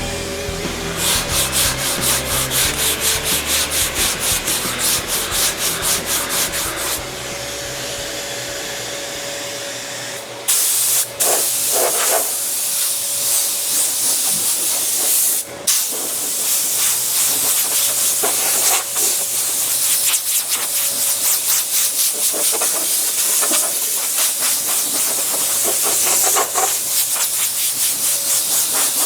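80-grit sandpaper on a sanding block rasping back and forth over body filler on a steel fender, in quick, even strokes. After about ten seconds the rasp turns into a brighter, denser hiss.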